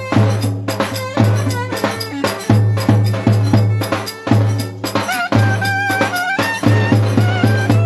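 Traditional Turkish folk dance music: a steady drum beat with a heavy low pulse under a melody whose pitch wavers and slides.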